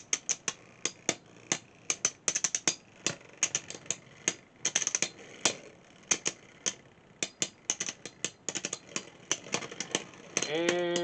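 Two Beyblade X spinning tops in a plastic stadium, clashing again and again: an irregular run of sharp clicks and clacks, several a second. A man's voice starts near the end.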